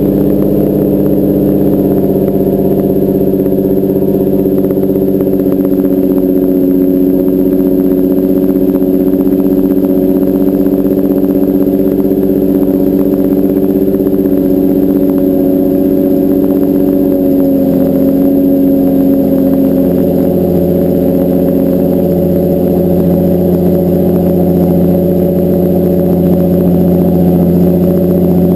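Nissan 350Z's 3.5-litre VQ35HR V6 running at a raised cold-start fast idle through a Motordyne TDX2 exhaust with ART test pipes. The engine note drops lower about two-thirds of the way through as the idle comes down.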